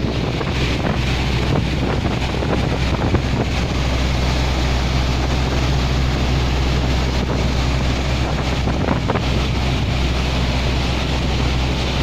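Fishing boat's diesel engine running steadily at speed, a constant low drone with its exhaust fed through a smoke-and-water separating silencer, under wind buffeting the microphone and water rushing past the hull.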